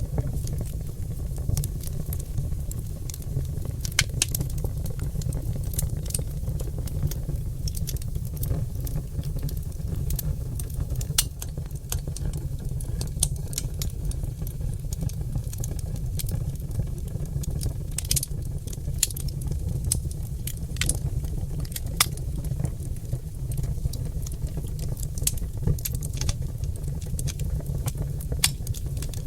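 Oak log fire crackling and popping, with sharp, irregular snaps over a steady low rumble.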